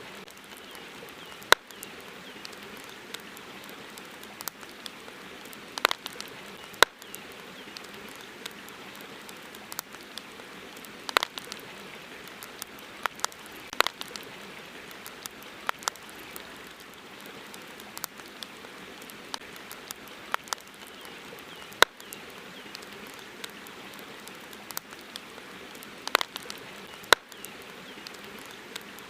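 Campfire crackling: irregular sharp pops and snaps, from a second to several seconds apart, over a steady hiss.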